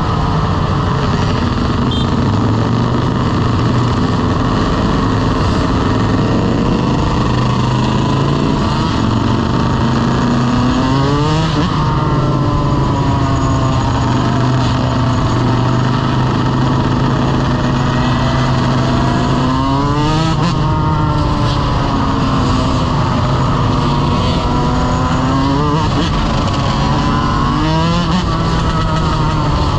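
Motorcycle engine running steadily under way, its pitch swooping up sharply with the throttle three times, about a third of the way in, two-thirds in and near the end.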